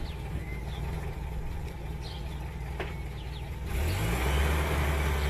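Engine of a Soviet UAZ off-road vehicle idling with a low hum, then revving up and getting louder about three and a half seconds in as it pulls away.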